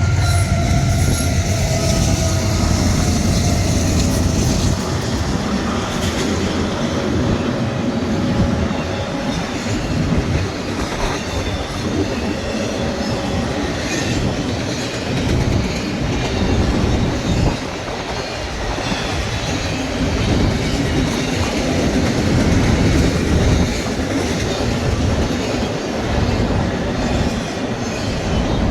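Freight train cars rolling past, a steady loud rumble and rattle of steel wheels on the rails.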